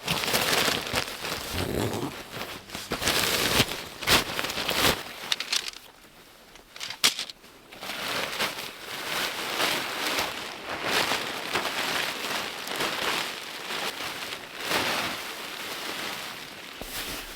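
Boots crunching and trampling packed snow in irregular bursts, treading down a flat spot for a tent. A few sharp clicks stand out near the middle, around a short quieter lull.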